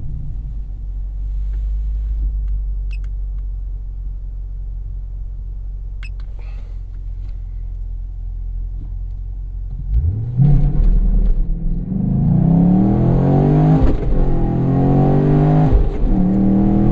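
2017 Chevrolet SS's 6.2-litre V8 idling steadily, then about ten seconds in launching hard from a stop with a 6-speed manual: the revs climb, drop at quick upshifts and climb again. It is a well-balanced launch with a little wheel hop, heard from the driver's seat.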